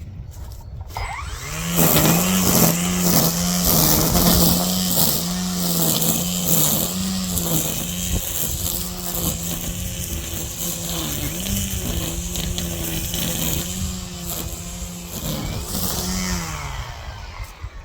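Gas-powered two-stroke string trimmer revving up and running at high speed while cutting weeds, its pitch wavering slightly with the throttle and the line's load, then winding down near the end.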